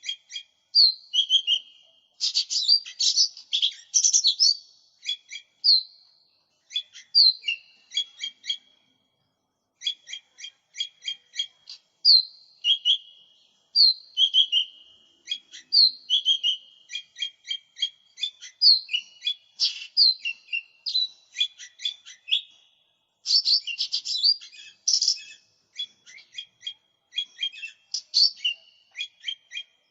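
Cucak ijo mini leafbird singing a fast, varied run of sharp high chirps and short whistled notes, broken by brief pauses, with busier bursts twice. It is a clear song recording of the kind used as a masteran (song tutor) and lure call.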